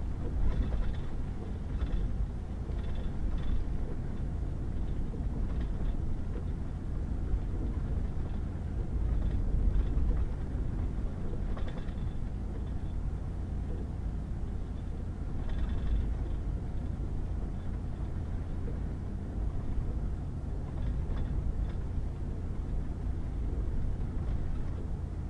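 Pickup truck driving on a wet gravel and mud road: a steady low rumble of engine and tyres on the road surface, with brief light rattles now and then.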